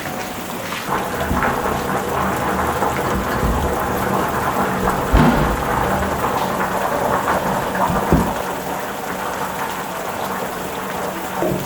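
Heavy rain falling steadily, with a low rumble of thunder swelling through the first half. Two sharp knocks stand out, about five and eight seconds in.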